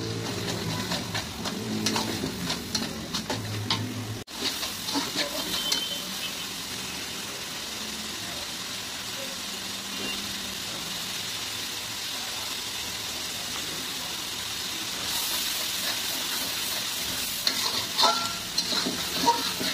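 Onion paste sizzling in hot oil in a large metal pot. A metal spatula scrapes and clicks against the pot as it is stirred in the first few seconds and again near the end, over a steady frying hiss.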